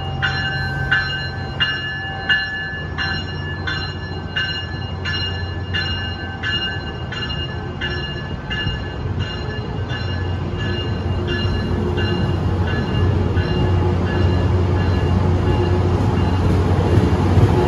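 Tri-Rail commuter train pulling out. Its bell rings about twice a second and fades away over the first ten seconds or so as the cab car moves off. Under it the low rumble of the moving train grows louder toward the end.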